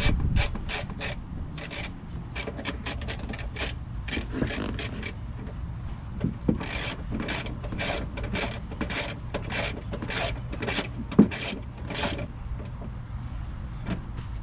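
Hand ratchet clicking in runs of quick strokes with short pauses between runs, as bumper fasteners are worked in, and one sharp knock about eleven seconds in.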